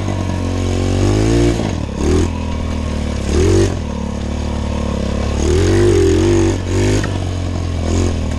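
Small pit bike engine running under riding load, its pitch rising and falling in short surges as the throttle is opened and closed several times. The engine won't rev out fully, which the rider thinks calls for adjusting the top end.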